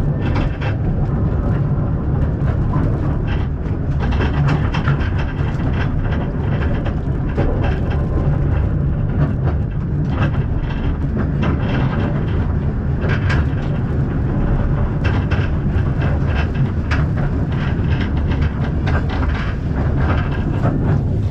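Narrow-gauge steam train carriage running on the rails: a steady rumble with frequent irregular clicks and rattles from the wheels and the carriage.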